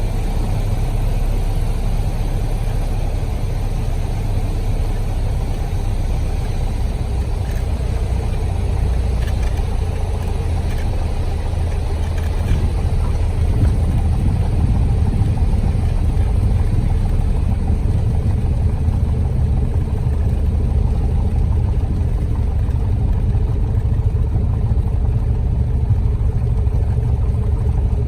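Steady low engine drone of a running vehicle, growing slightly louder about halfway through.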